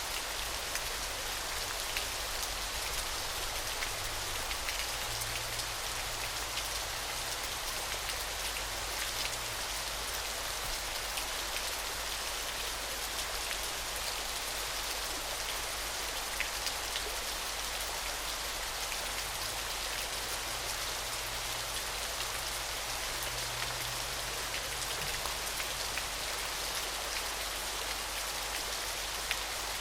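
Waterfall sound effect: a steady, unchanging rush of falling water, dotted throughout with fine splashing ticks of drops.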